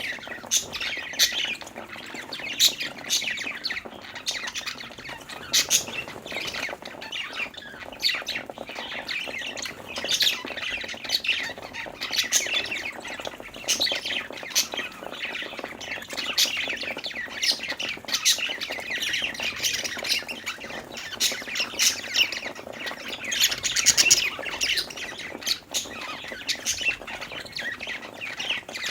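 A flock of budgerigars chirping, warbling and squawking continuously, many short overlapping calls with louder bursts now and then.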